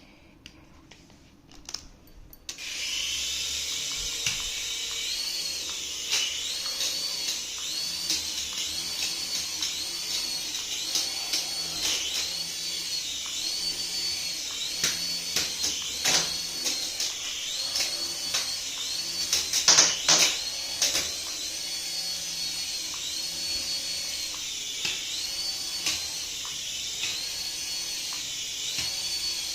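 Small electric motor of a toy whining at high speed, its pitch repeatedly dipping and rising as the throttle changes, starting about two seconds in, with a few sharp knocks partway through.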